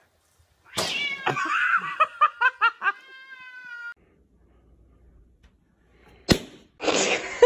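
A cat yowling: a harsh cry breaks into several quick pulses, then settles into a held, steady note and stops abruptly. A few seconds later there is a single sharp snap.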